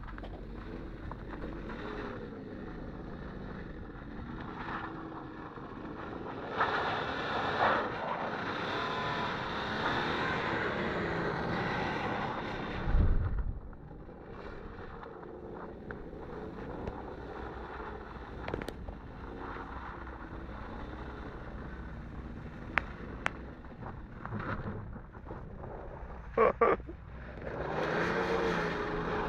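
Engine of a four-wheel-drive BMW 3 Series (E46) Touring revving up and down as the car slides in circles on snow, its pitch rising and falling with the throttle. It is loudest about a third of the way in and again near the end, when the car passes close. Wind buffets the microphone once, and a few sharp clicks sound late on.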